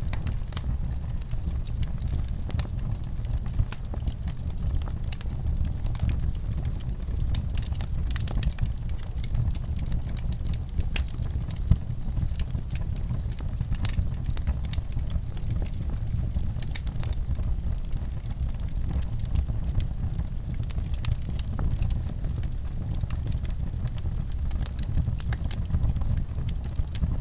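Fire crackling: frequent sharp pops and snaps over a steady low rumble, with one louder pop near the middle.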